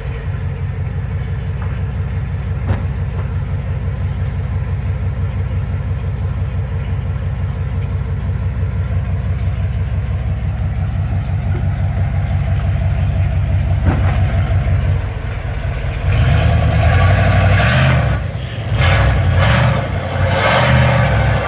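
Mud truck engine idling steadily with a low rumble, then, about three-quarters of the way in, revved louder in several bursts, rising and dropping.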